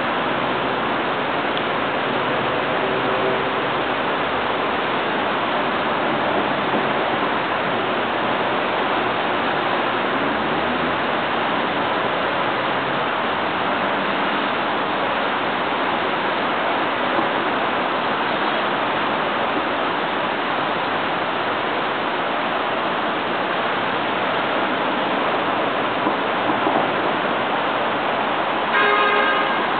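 Steady hiss of rain falling during a thunderstorm. Near the end a brief pitched sound rises over it for about a second.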